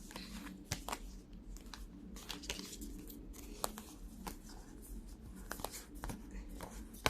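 Faint rustling with scattered light clicks and taps as a deck of oracle cards is handled and shuffled.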